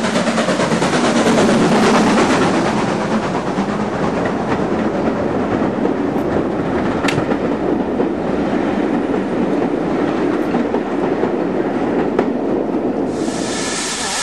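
A train running on the rails, with steady rolling noise and a few sharp clicks of the wheels over rail joints. About a second before the end, a loud steam hiss starts.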